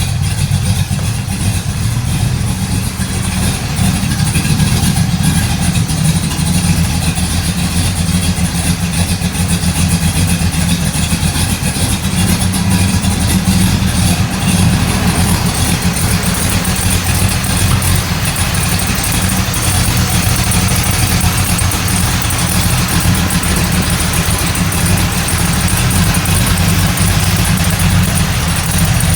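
Truck engine running steadily at idle, a little louder from about four seconds in. It has a cam the owner calls way too big: it pulls too little vacuum and will only idle with the throttle body adjustment opened up.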